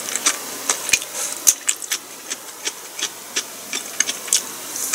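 A person chewing a mouthful of stir-fried food close to the microphone, with irregular wet mouth clicks and smacks several times a second.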